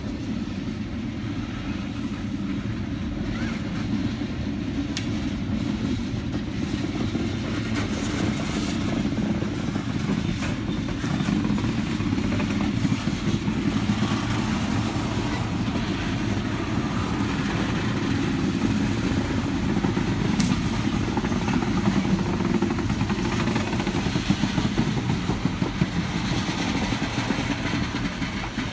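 A steady low engine rumble that runs on without a break.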